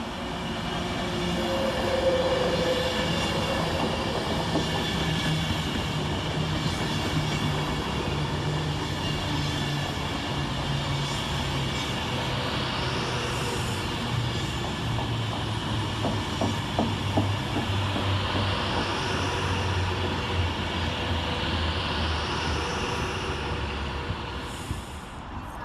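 Class 390 Pendolino electric train arriving and slowing: its electric traction hum steps down in pitch as it decelerates, with wheels clicking over rail joints about two-thirds of the way through and a few brief high whines that rise and fall.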